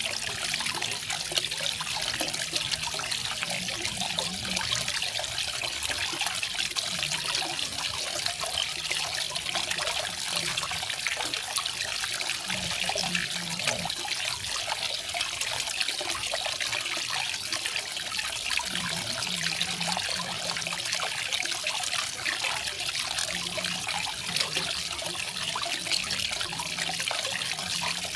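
Small garden waterfall splashing and trickling in a steady, even rush.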